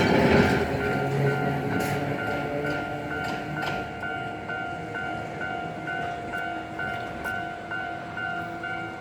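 A 45-tonne-class electric locomotive passes and rumbles away, fading over the first few seconds, its wheels clicking over rail joints a few times. A level crossing warning bell rings on with a steady repeating chime, a little under two strikes a second.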